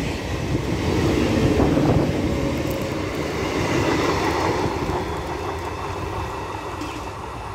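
Electric multiple unit (EMU) local train running past on the tracks: a steady rumble of wheels and motors that slowly fades in the second half.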